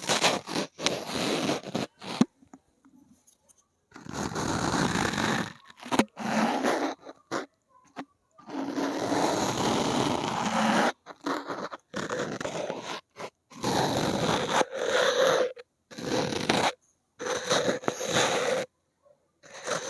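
Fingernails scratching across a hard or textured surface in stretches of one to three seconds, with short pauses and a few light taps between.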